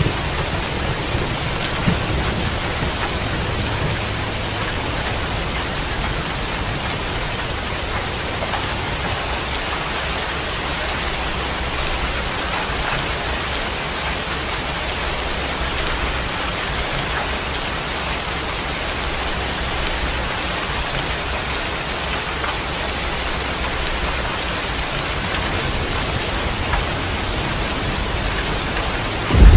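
Steady rain falling, an even hiss without let-up. A low thunder rumble dies away over the first few seconds, and a loud thunderclap breaks in right at the end.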